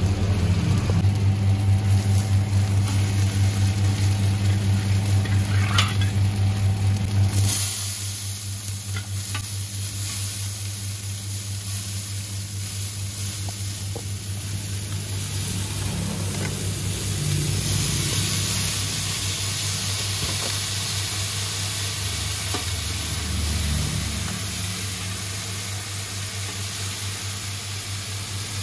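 Seafood omelettes and bean sprouts sizzling in hot oil on a wide flat pan, with metal spatulas scraping and turning them. A low steady hum sits under the frying and stops about seven seconds in, after which the sizzle is brighter.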